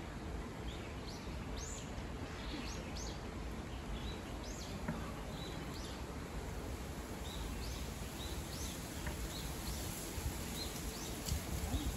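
Small birds chirping in short, repeated calls over a steady low background rumble, with a few light knocks near the end.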